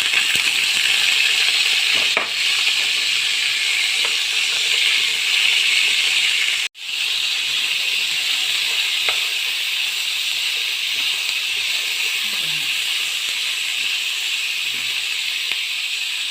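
A loud, steady, dense hiss with no clear rhythm, broken off for an instant about seven seconds in.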